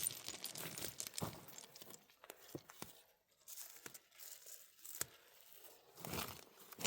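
Faint, intermittent rustling and crinkling with a few light snaps and clicks, broken by short quiet gaps; a louder rustle comes near the end.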